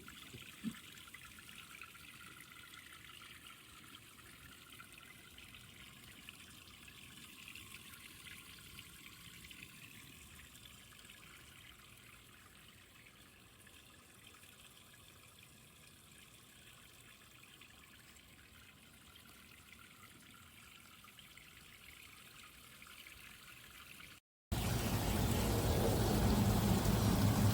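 Water trickling faintly down a tiered outdoor garden fountain, with a single knock just under a second in. About 24 seconds in the sound cuts out briefly and gives way to a much louder steady noise with a low hum.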